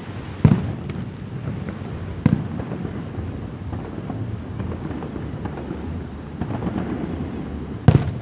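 Aerial fireworks shells bursting: three sharp, loud booms, about half a second in, about two seconds in and the loudest near the end, with fainter crackles and a low rumble between.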